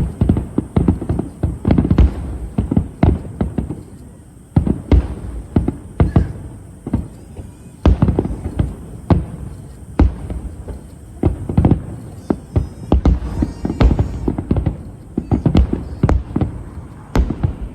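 Aerial fireworks shells bursting in rapid, irregular succession: a dense string of sharp booms and bangs, several a second, with heavy low rumble.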